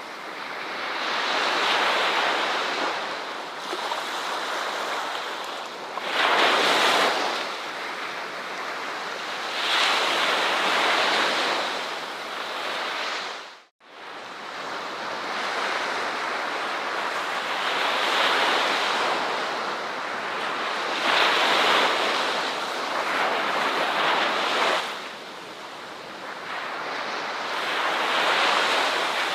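Ocean waves breaking on a shore, the surf swelling and fading every few seconds. About fourteen seconds in, the sound drops out to near silence for a split second and then resumes.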